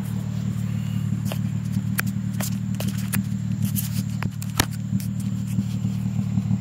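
2003 Hyundai Tiburon's engine running steadily with a low hum, with scattered sharp clicks and taps over it.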